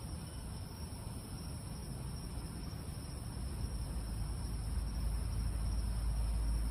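A steady high-pitched night insect chorus, with a low rumble building gradually from about halfway through.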